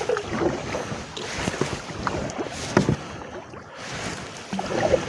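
Canoe paddle strokes dipping and splashing in the water, with wind on the microphone and one sharp knock a little under three seconds in.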